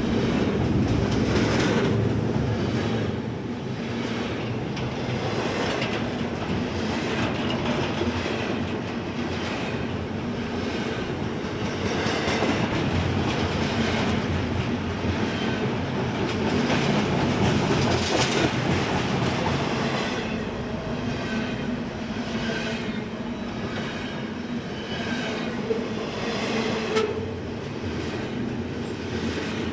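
Freight train cars rolling steadily past, with wheels clicking now and then over the rail.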